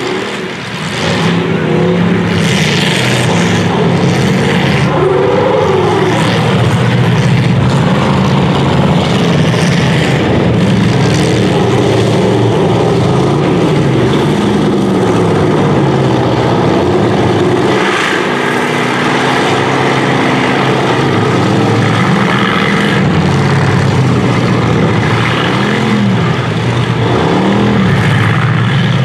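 Engines of several full-size demolition derby cars running and revving up and down in overlapping rises and falls, with a few short bangs from the cars hitting each other.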